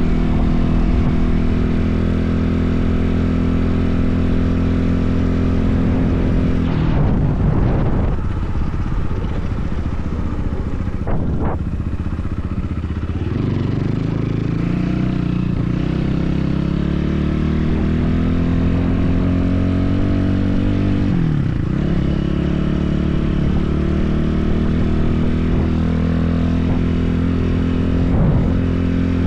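BSE enduro motorcycle engine running while riding. Its pitch climbs steadily from about thirteen seconds in, drops sharply about twenty-one seconds in, then holds steady.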